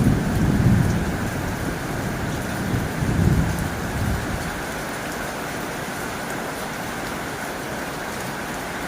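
Heavy rain drumming steadily on a tin roof. Two low rumbles of thunder rise and fade in the first half.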